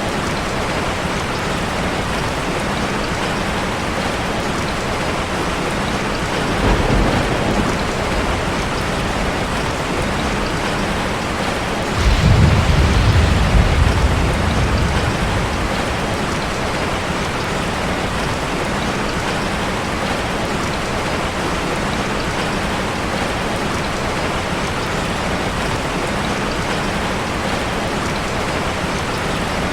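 Steady rushing water noise of an ambience track, with a deep low rumble about seven seconds in and a longer, louder one about twelve seconds in.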